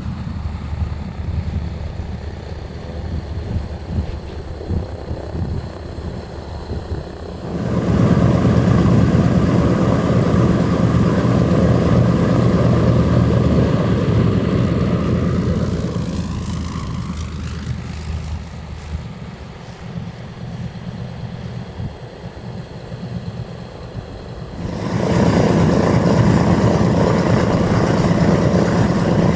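Douglas C-47 Skytrain's twin radial piston engines and propellers running steadily. The sound jumps louder about a quarter of the way in, eases off past the middle, and jumps louder again near the end.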